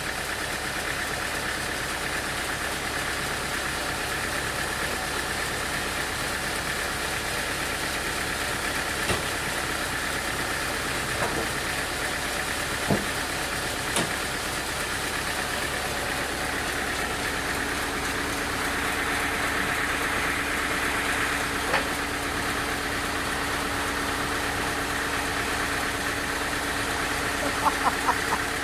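A machine's motor running steadily at a constant pitch, with a few single sharp knocks and a quick cluster of taps near the end.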